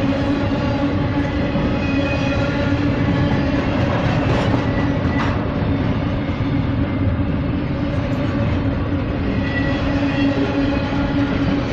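Norfolk Southern train 238 rolling past, a steady loud rumble of wheels on rail with a constant low hum and faint, intermittent high squeals.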